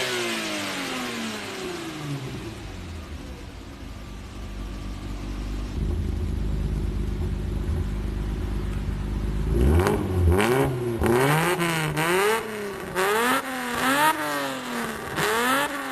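Car engine revving: the revs fall away to a steady idle, then from about ten seconds in the throttle is blipped repeatedly, the pitch rising and falling several times in quick succession.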